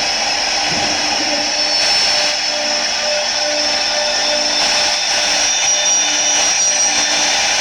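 CNC wood lathe grooving a turning wooden workpiece: a steady machine whine over a continuous cutting hiss, with no pauses.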